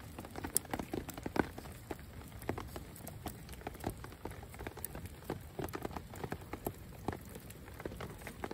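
Rain falling: a steady hiss with a dense, irregular patter of drops.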